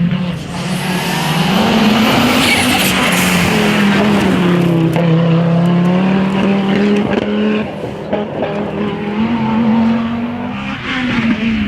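Historic rally car engine being driven hard, its note rising and falling several times as the driver works the throttle and changes gear.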